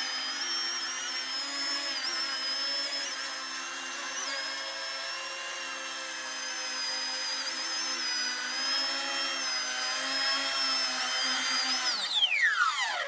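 Electric motors and propellers of a radio-controlled VTOL model plane whining steadily with several tones at once, the pitch wavering slightly. About twelve seconds in, the whine's pitch falls steeply.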